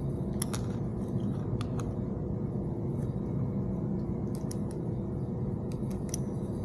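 Scattered light metallic clicks from small hand-tool work (a screwdriver and small parts being handled) over a steady low hum.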